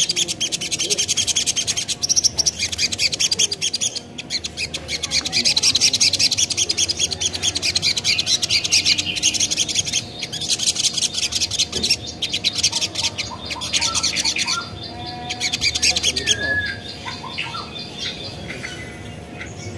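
A sogon (little spiderhunter) sings a fast, continuous, high-pitched chattering song, breaking off briefly about four seconds in and again near fifteen seconds. In the last few seconds it gives only scattered, quieter chirps.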